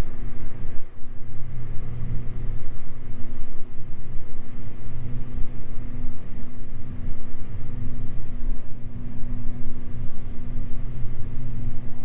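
Twin six-cylinder piston engines and propellers of a Beechcraft G58 Baron running steadily in flight, a constant low drone heard from inside the cabin.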